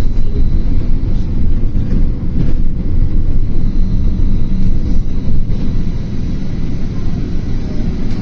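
Interior running noise of a BKM-32100D trolleybus under way: a steady low rumble of tyres and body, with a faint thin high tone over it.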